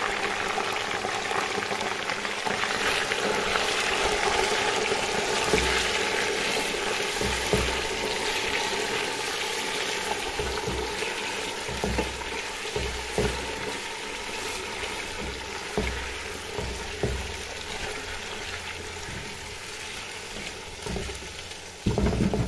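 Raw chicken pieces sizzling as they fry in hot oil with browned onions in a nonstick pot, with a spatula knocking and scraping against the pot as they are stirred. The sizzle is loudest in the first few seconds and slowly eases off; a louder bump comes near the end.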